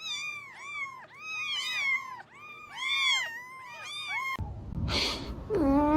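A cat mewing: a rapid string of short, high-pitched mews, each rising and falling, for about four seconds. Then comes a sudden burst of noise, and a lower, longer meow starts near the end.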